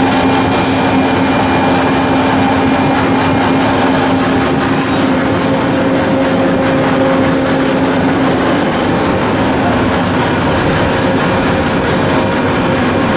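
Loud, steady machinery noise with a constant low hum. About five seconds in, a higher hum tone joins, and the lower one fades later on.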